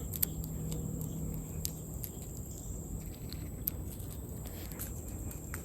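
Insects droning steadily at a high pitch, with scattered small clicks of handling noise.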